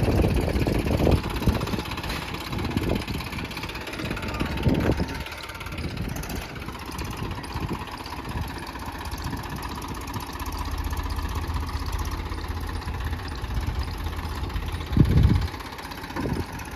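Diesel tractor engine running steadily, with uneven surges in the first few seconds and a short louder burst about fifteen seconds in.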